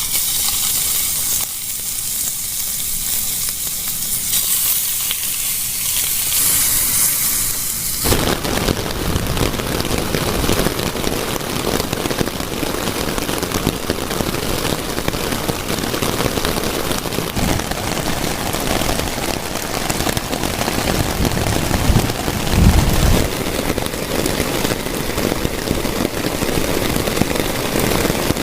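Heavy rain falling steadily: a high hiss for the first eight seconds, then an abrupt change to a louder, denser close patter of drops.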